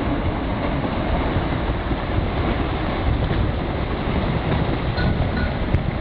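Storm-force wind blasting over a microphone: a loud, steady rushing roar, heaviest in the low rumble.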